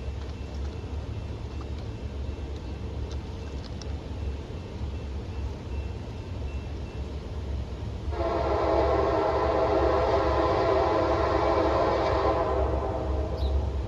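A train's air horn sounds one long blast of about four seconds, starting about eight seconds in and ending sharply, over a steady low rumble.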